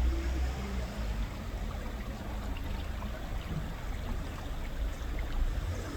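Stream water running steadily, over a low rumble.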